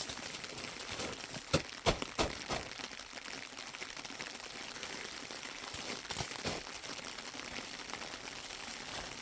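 A few sharp knocks and clatters, a cluster about a second and a half in and two more about six seconds in, over a steady background hiss.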